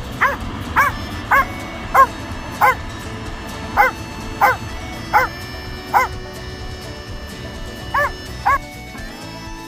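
A dog barking in short yips, about eleven of them in irregular runs, with a pause before the last two. Background music plays underneath.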